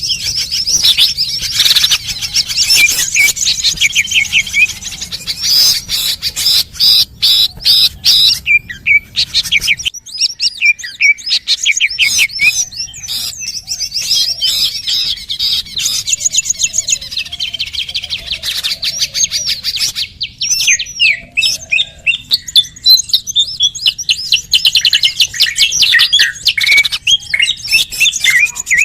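Small birds chirping and twittering in fast, dense, overlapping runs of high notes, with a brief lull about ten seconds in. It is a recorded bird-lure call, played to draw wild birds in.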